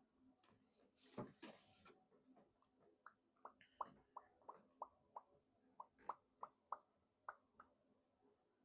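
Faint light clicks and taps of board-game pieces being handled and set on a table: a brief rustle about a second in, then about a dozen small clicks at roughly three a second.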